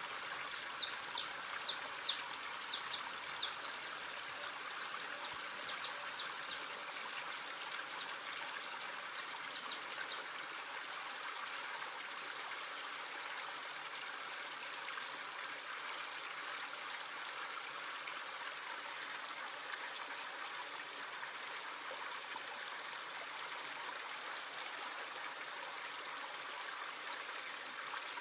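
Stream running steadily, with a quick series of short, sharp, high bird calls that stops about ten seconds in.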